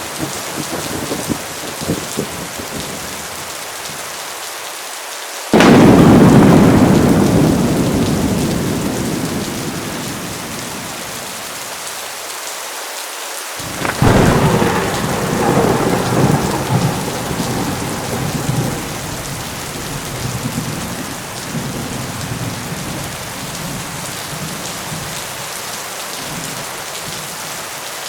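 Heavy rain falling steadily during a thunderstorm, with two thunderclaps. The first is a sudden sharp crack about five seconds in that rumbles away over several seconds. The second comes about fourteen seconds in and rolls on in several rumbles before fading.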